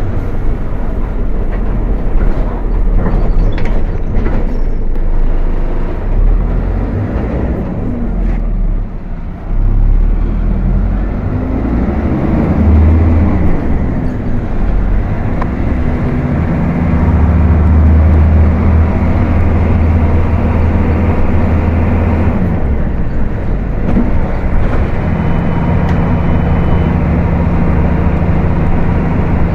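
Volkswagen 17.230 OD bus engine running under way, its note shifting in pitch several times as the revs change. There is a brief dip in loudness a little before ten seconds in.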